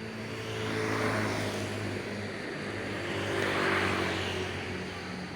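Motor vehicle engines: a steady engine drone, with traffic noise swelling as vehicles pass, about a second in and again near four seconds.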